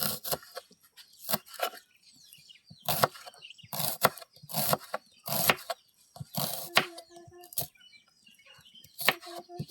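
A run of irregular sharp knocks and cracks, about a dozen in all, with small birds chirping between them.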